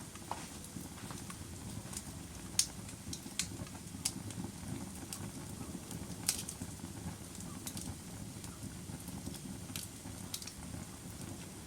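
Log fire burning with a steady low rumble and irregular sharp crackles and pops, the loudest about two and a half seconds and six seconds in.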